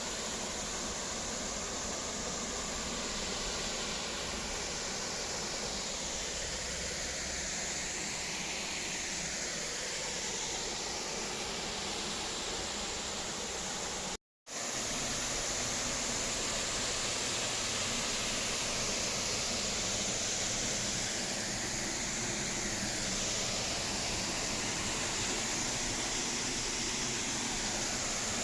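Waterfall: a steady rush of falling water, cutting out for a split second about halfway through.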